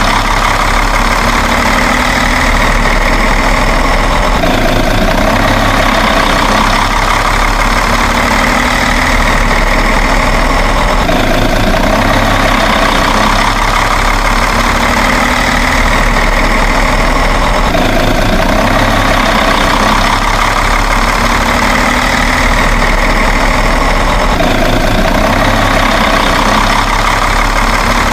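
Truck engine idling sound, steady and unchanging, with a pattern that repeats about every six and a half seconds as a loop.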